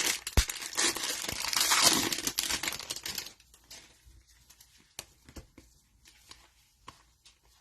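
Cellophane wrapper of a trading-card cello pack being torn open and crinkled for about three seconds, then a quieter stretch with a few scattered light clicks.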